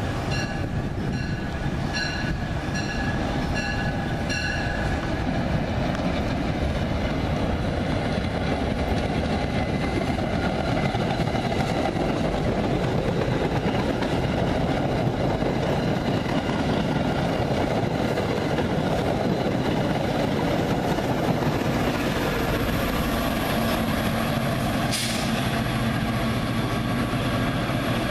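Commuter train's bell ringing about twice a second for the first few seconds, then the steady rumble and wheel noise of the train rolling past. Near the end the low drone of a diesel locomotive engine grows in, with one brief sharp clank or squeal.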